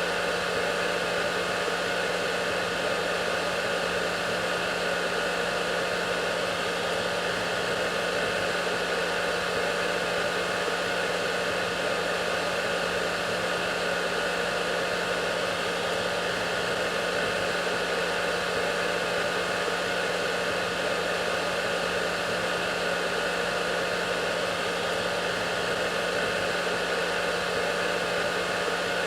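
Hair dryer running continuously at a steady speed: an even rush of air with a low motor hum and faint steady whine tones, unchanging throughout.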